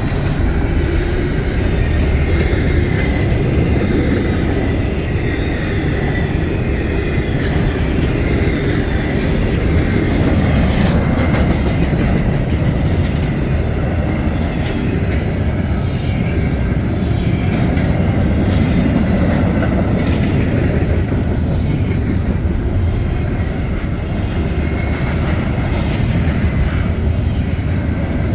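CSX intermodal freight cars rolling past at speed: a steady, loud rumble of wheels on rail with a rapid clatter of wheels over the track.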